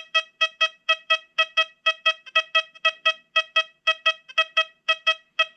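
XP Deus 2 metal detector sounding its target tone over an old Indian head cent: a rapid, even string of short beeps at one pitch, about four a second.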